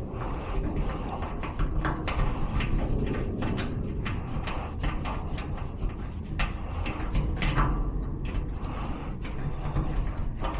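Tools working inside a garage door lock cylinder: irregular small metallic clicks and scrapes over a steady low rumble.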